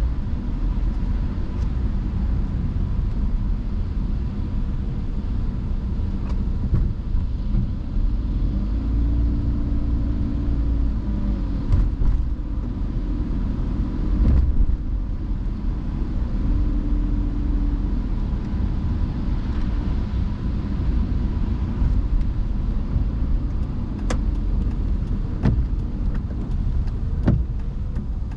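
A car driving on wet roads in the rain, with a steady low rumble of engine and tyres. The pitch rises and falls gently a few times, and a few sharp clicks come near the end.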